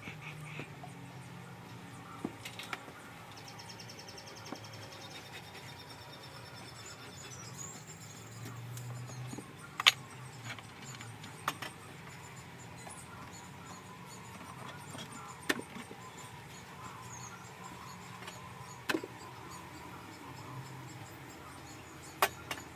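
Beehive being opened and worked with a hive tool: sharp cracks and knocks every few seconds as propolis-sealed boxes and frames are pried apart, over a low steady hum.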